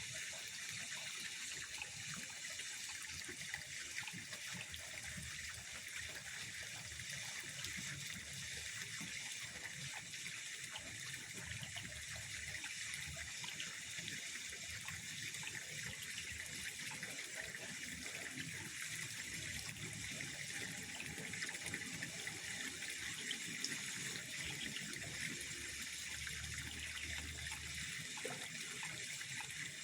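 Pond water sounds, steady and unbroken at a low, even level.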